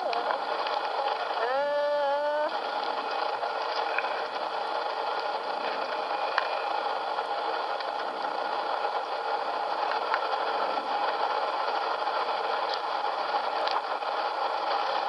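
Kiha 183 series diesel limited express running: steady running noise from aboard the train, with rattles and occasional faint clicks. A brief sound with a wavering pitch comes about two seconds in.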